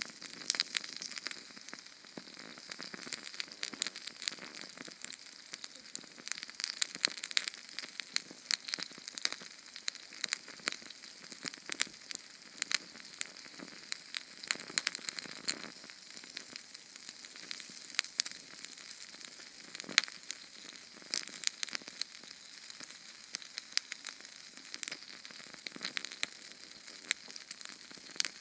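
Small Sterno canned-fuel flame burning: a steady hiss with dense, irregular crackles and sharp pops, several a second.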